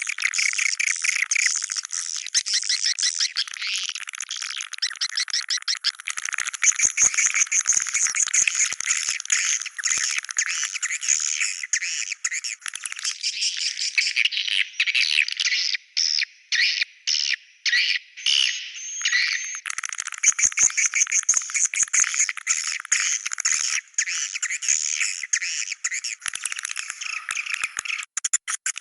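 Swiftlet calls: a dense, continuous chatter of rapid twittering chirps from a 'Goa China' swiftlet-house lure recording, all high-pitched, broken by a few short dropouts midway.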